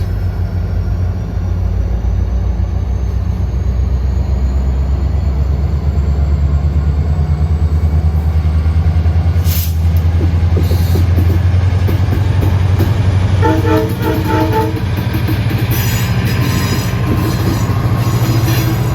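A train passing close by with a loud, steady deep rumble. A few short horn toots sound about two-thirds of the way through, followed by clicks and light wheel squeal from the rails.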